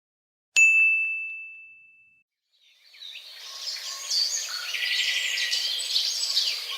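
A single bright ding, a struck bell-like tone ringing out and fading away over about a second and a half. After a short silence come birds chirping and singing over a light outdoor hiss.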